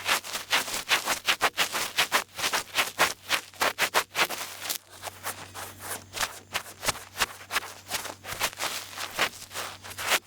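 Small ear pick scraping and rubbing in an ear, close to the microphone: quick, irregular scratchy strokes, several a second, easing off for a while around the middle. A faint steady low hum lies underneath.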